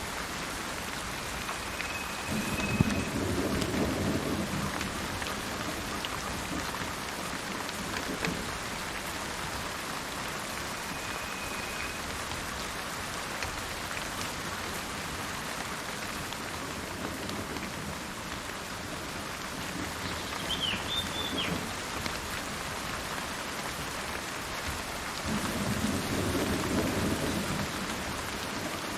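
Steady rain falling in a forest, with a low roll of thunder about three seconds in and another near the end. A few short, high bird calls sound over the rain.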